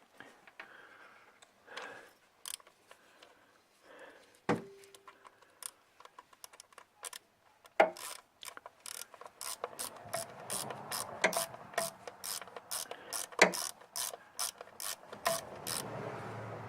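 Hand socket ratchet clicking: a few scattered clicks and one sharp, ringing metal knock, then from about eight seconds in a quick, even run of ratchet clicks, several a second, as a fastener is turned.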